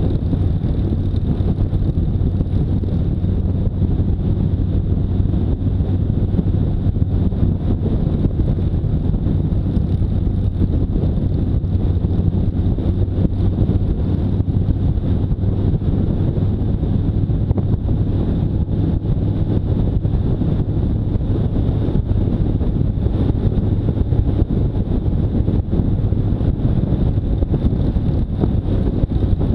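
Motorcycle engine running steadily while riding, with a steady low hum and heavy wind noise on the microphone.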